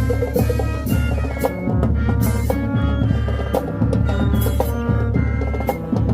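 High-school marching band playing, with brass notes over a driving beat of marching drums and cymbals.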